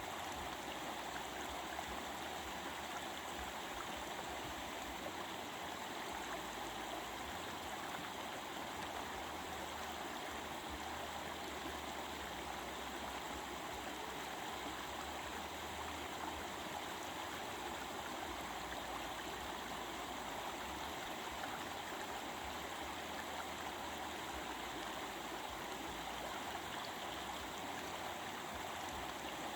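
Stream water running and babbling steadily, an even rush without pause or change.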